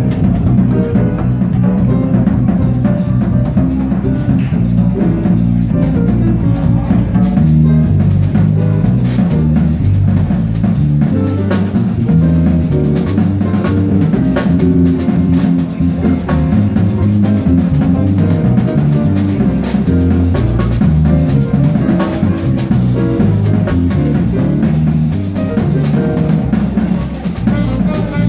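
A jazz group playing, with a bass line stepping through low notes and a drum kit keeping time.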